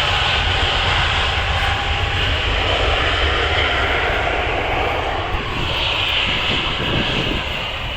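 Airliner engines running loud and close: a deep steady rumble with a whining hiss above it, easing off slightly toward the end.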